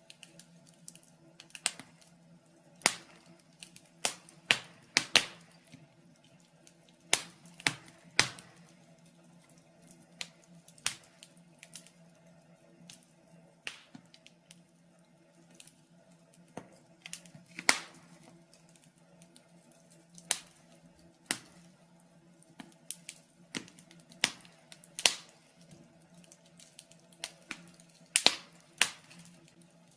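Wood fire in a fireplace crackling, with irregular sharp pops, some in quick clusters, over a faint steady low hum.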